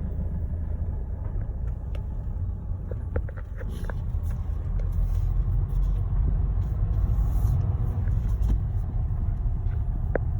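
Motor vehicle engine running with a steady low rumble, with a few faint clicks and knocks.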